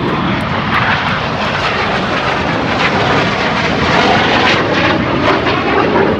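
BAE Hawk jets flying past, their Adour turbofan engines giving a loud, steady roar that builds slightly about four seconds in.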